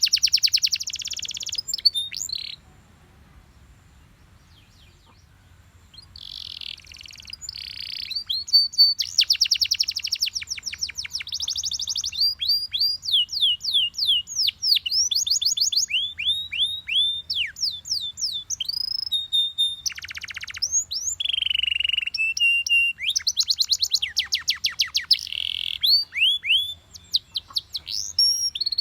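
Canary singing: fast rolling trills and runs of quick downward-sweeping whistled notes. The song breaks off for a few seconds about two and a half seconds in, then resumes.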